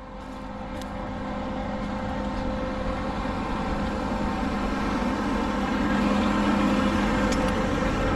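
Case IH tractor running with a steady, even drone that builds gradually in loudness over the first several seconds, then holds.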